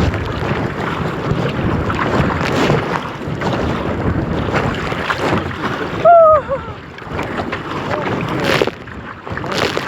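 Strong wind buffeting the microphone over choppy river water, with waves slapping and splashing around a kayak. About six seconds in there is a short vocal cry.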